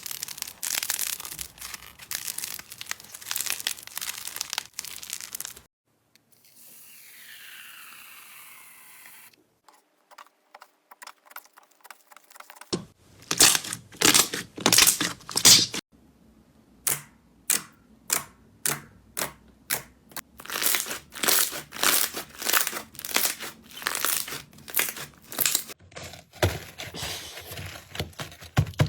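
Crunchy slime being squeezed and pressed by hand, making dense crackling and crinkling pops. A quieter, softer stretch and a run of fine clicks come about a third of the way in. After that the crackling comes back in regular bursts, about one or two a second.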